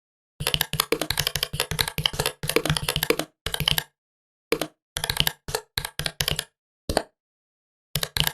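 Laptop keyboard typing: a dense run of keystrokes for about three seconds, then slower, scattered key presses, a pause of about a second, and a few more keystrokes near the end.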